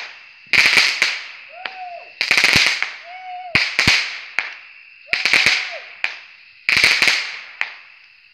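Aerial fireworks bursting overhead, about six sharp bangs spaced roughly a second and a half apart, each trailing off over a second or so.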